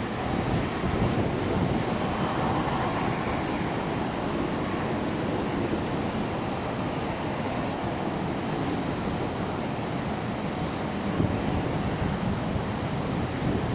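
Boeing 747's four jet engines at takeoff power, a steady deep rumble without pauses or sudden events.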